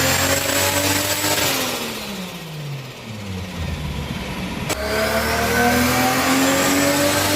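Turbocharged 1JZ inline-six in a Miata swap, revving up under load, then the revs falling away. After a sharp break about two-thirds of the way through, it climbs steadily in pitch again through a second pull.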